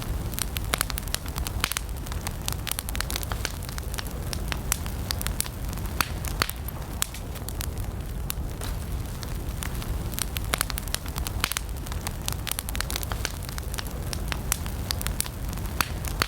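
Wood campfire burning with frequent sharp, irregular crackles and pops over a steady low rumble of flames.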